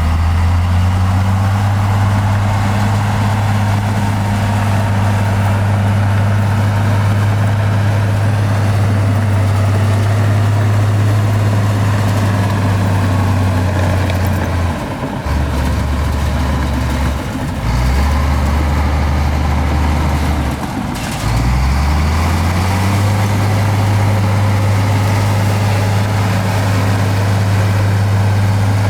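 Heavy earthmoving machine's diesel engine running steadily. Its pitch drops lower for several seconds midway, then revs back up and holds.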